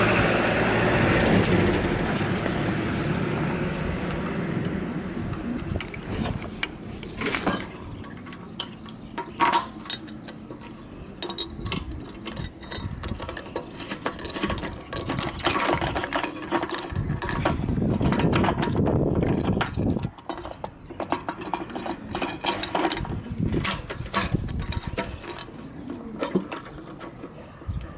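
Yamaha Drag Star 400 V-twin with short trumpet exhausts, its engine sound fading away over the first few seconds. After that come scattered clicks and knocks, with a swell of noise about two-thirds of the way in.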